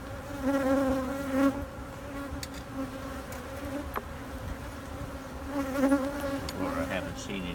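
Honeybees buzzing close to the microphone, a steady drone that swells as bees fly past, loudest about half a second in and again about six seconds in, with a brief sliding pitch near the end.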